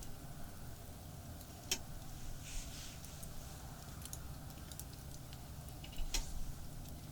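Campfire crackling with scattered, irregular sharp pops and a brief hiss about two and a half seconds in, over the low, steady rumble of expressway traffic.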